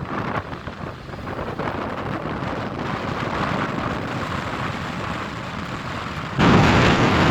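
Wind in a snowstorm blowing across the microphone: a steady rushing noise that gets suddenly louder near the end.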